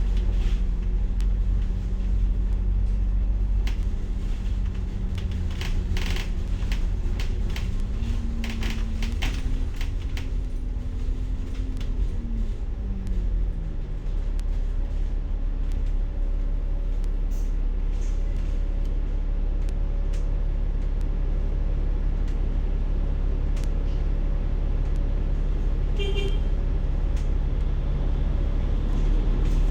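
Bus engine and road rumble heard from inside a moving bus, steady and low, with rattles from the body. About a quarter of the way in the engine note rises as the bus pulls away, then drops back a few seconds later. A short beep sounds near the end.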